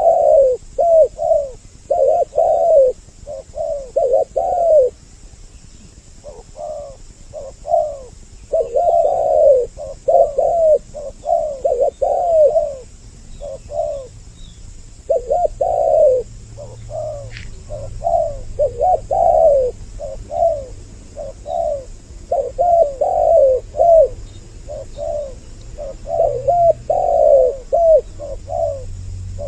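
Spotted doves (tekukur) cooing in repeated phrases of short coos with pauses between them, with two birds' voices overlapping.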